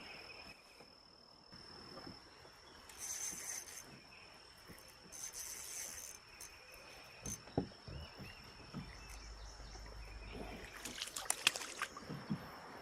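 Insects droning steadily on one high pitch, with two short hissing splashes a few seconds in and a quick cluster of clicks and knocks near the end.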